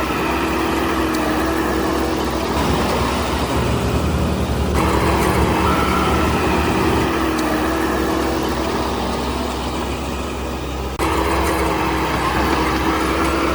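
Heavy diesel construction machinery running steadily, a low engine drone with a high whining tone over it. The sound shifts abruptly about 5 seconds in and again about 11 seconds in.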